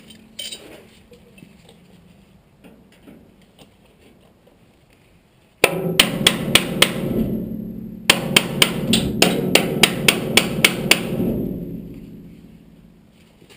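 Hammer blows on sheet steel being bent into shape: a quick run of about five strikes about halfway through, then a longer run of about ten, with the metal ringing and dying away after each run.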